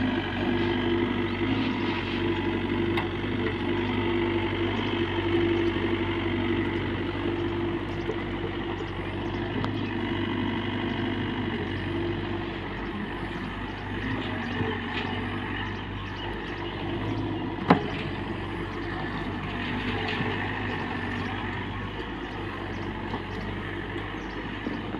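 Heavy diesel engine running steadily, with a single sharp knock about two-thirds of the way through.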